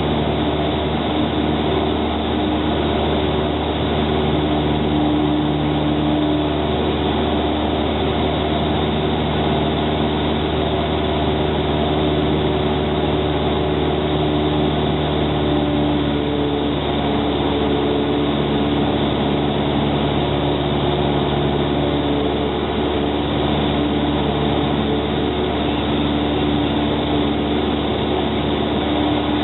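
Light aircraft's engine and propeller droning steadily, heard from inside the cockpit, with several steady engine tones that hold level.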